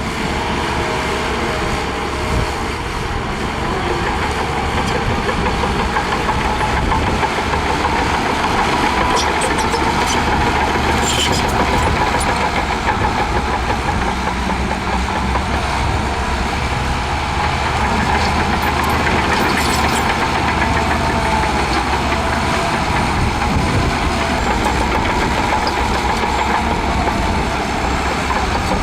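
Diesel engine of heavy earthmoving machinery running steadily, with a wavering whine and a few brief metallic clinks.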